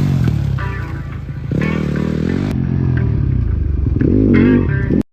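Dirt bike engines revving, the pitch rising and falling as the throttle is worked, then cutting off abruptly near the end.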